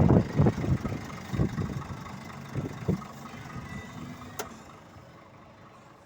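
Scania truck's diesel engine idling steadily, with wind gusting on the microphone at first and dying away. One sharp click about four and a half seconds in, and the sound grows fainter toward the end.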